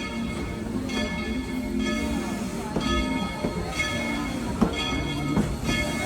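A steam locomotive's bell ringing about once a second over the low rumble of the train.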